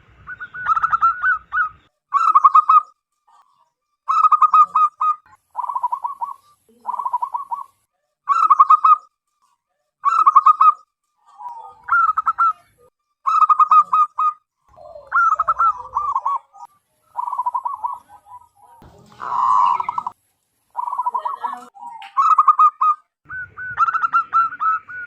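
Zebra doves (perkutut) calling: short rapid, pulsed cooing phrases repeat about once every second or so, some higher and some lower in pitch. About three quarters of the way through comes a harsher, noisier call.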